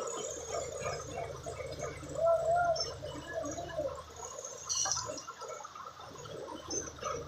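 Water gurgling and splashing over a steady low machine hum, with a couple of sharp knocks, one about five seconds in and one near the end.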